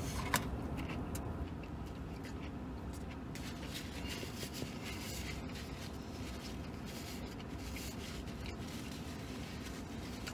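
A man chewing a mouthful of roast beef sandwich, with faint rustling of a napkin and the cardboard sandwich box, over a steady low background hum. A light click about half a second in.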